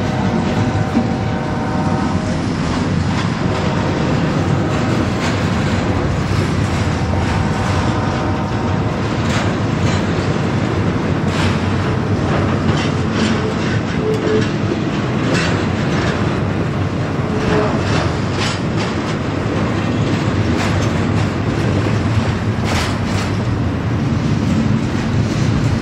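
Double-stack intermodal container train rolling past at close range: the steady, loud rumble of loaded well cars on the rails, with clickety-clack of wheels over rail joints. A faint metallic ringing comes in the first couple of seconds and again about eight seconds in.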